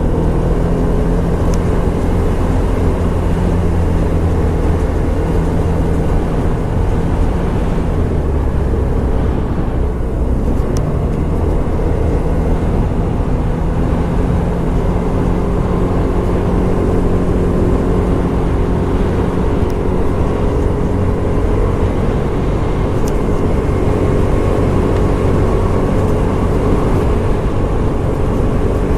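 Scomadi TT125 scooter's 125 cc four-stroke single-cylinder engine running steadily while riding, over a constant rush of noise. The engine note shifts and dips briefly about eight to ten seconds in, then holds steady again.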